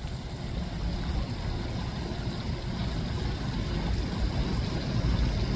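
Low, irregular rumbling noise with no clear pitch, gradually getting louder.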